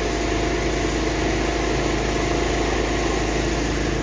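Large vehicle engines idling steadily, a constant drone with no change in pace.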